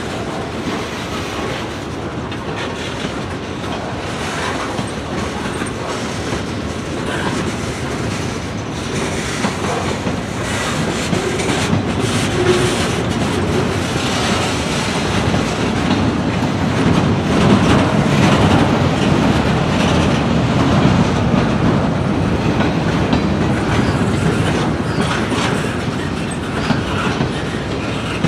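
Freight train rolling past, its cars' wheels clacking over the rail joints in a steady, loud rumble that swells toward the middle and eases slightly near the end.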